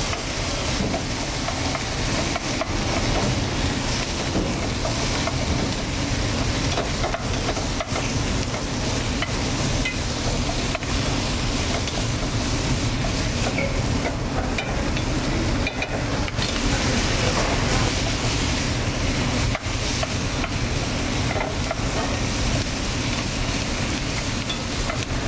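Chicken pieces with chopped onion, celery and carrots sizzling in rendered chicken fat in a heavy pot, stirred and scraped with a wooden spoon: the vegetables are being browned to caramelize their sugars. A steady low hum runs underneath.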